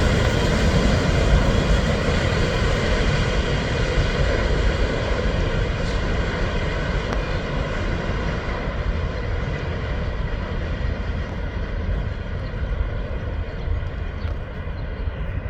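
Empty coal train rolling by on the rails, a steady rumble that slowly fades and grows duller over the last several seconds as the train moves off.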